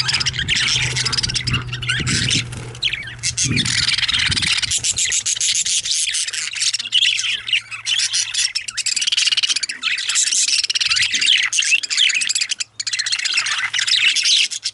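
Several budgerigars chirping and warbling continuously in a dense, busy chatter of quick high twitters.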